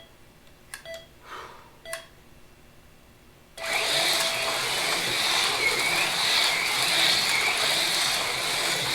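Race timer beeping a short countdown about once a second, then a longer start tone about three and a half seconds in as AFX Mega G+ HO slot cars take off, their small electric motors and tyres setting up a steady high whir on the track.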